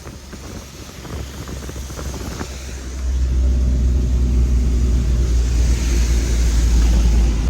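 Moving vehicle on a motorway: steady road and wind rumble, which gets suddenly louder and heavier about three seconds in.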